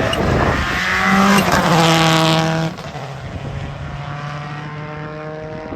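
Rally car engine at high revs, its pitch stepping with gear changes, then suddenly much quieter about two and a half seconds in as it pulls away, leaving a steady lower engine note; another engine note rises near the end.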